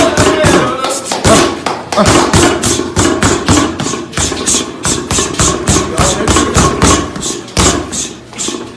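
A striking bag being punched in a fast, even rhythm of sharp thuds, several hits a second.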